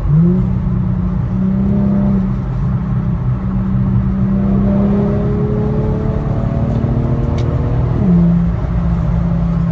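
Infiniti G37's 3.7-litre VQ V6 exhaust with the muffler deleted. The engine revs jump up right at the start as a gear is dropped, then the car pulls with the engine note rising slowly for about eight seconds before the revs fall back near the end. The tone is not too loud.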